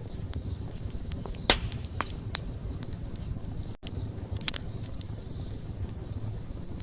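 Wood campfire crackling: irregular sharp pops and snaps over a low steady rumble of the flames, the loudest pop about one and a half seconds in. The sound cuts out for an instant just before the four-second mark.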